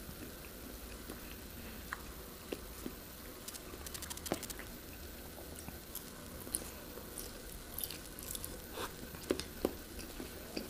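Close-miked chewing of soft food, wet mouth sounds with scattered light clicks and ticks, a few sharper ones around four seconds in and near the end.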